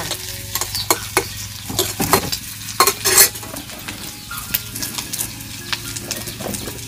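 Food sizzling as it fries in a pan, with a spatula stirring and scraping against the pan in irregular strokes.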